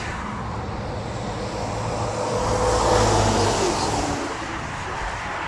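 A road vehicle passing by, its rumble and tyre noise swelling to its loudest about three seconds in and then fading.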